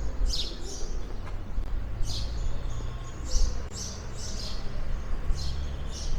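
Small birds chirping, short high calls repeating every half second or so, over a steady low rumble of street background.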